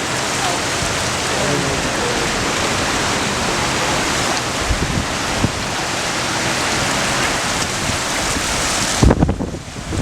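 Steady, dense hiss of water from a creek in flood and heavy rain. About nine seconds in, the hiss thins and gusts of wind buffet the microphone with low rumbling thumps.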